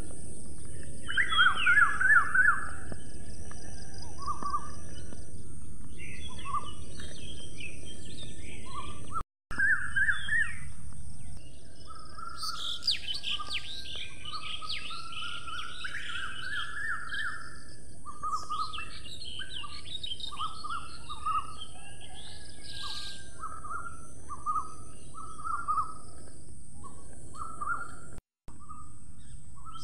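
Birds chirping and singing in short repeated phrases over a steady outdoor background hiss. The sound cuts out briefly twice.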